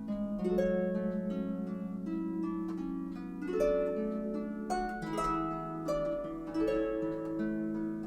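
Solo harp music: a flowing line of plucked notes, each left ringing over the others.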